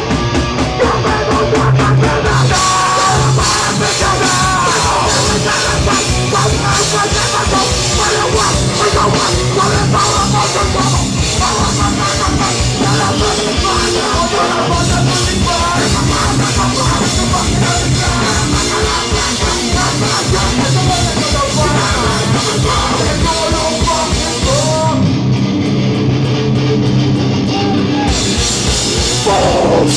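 Live hardcore punk band playing loudly: distorted electric guitars, bass and a drum kit. Near the end the high cymbal wash drops out for about three seconds while the guitars and bass carry on.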